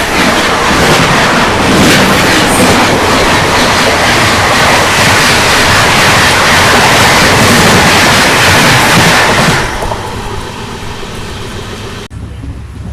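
A moving train running along the track, its wheels on the rails making a loud, steady rushing noise. It drops to a quieter rumble a little over two-thirds of the way through, then cuts abruptly lower near the end.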